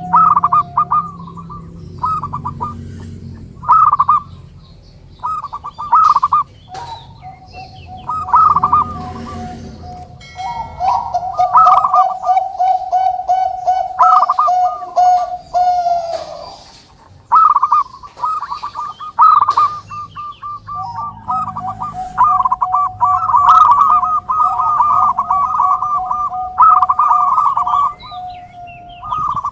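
Zebra doves (perkutut) cooing: repeated phrases of quick, rolling notes, with two or more birds calling over each other at times.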